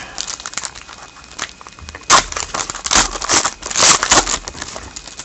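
Hockey trading cards being handled, a crinkling rustle with several louder rustles between about two and four seconds in.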